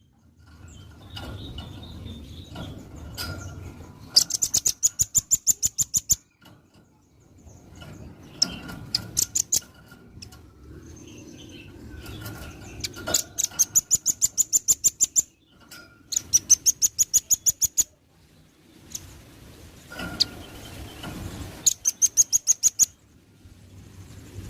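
Velvet-fronted nuthatch singing: rapid trills of sharp, high notes, about ten a second. Each run lasts one to two seconds and comes about five times, with a faint low background noise in between.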